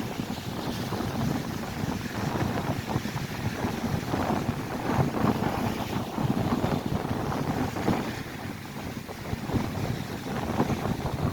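Strong wind buffeting the microphone in uneven gusts, over the rushing noise of lake waves breaking on the shore.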